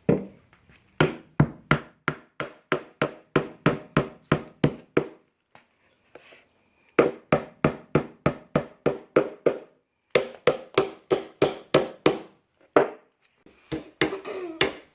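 Hammer driving nails into cedar fence-picket boards: steady, even strikes at about three a second, in two long runs with a pause of a couple of seconds between them, then starting again near the end.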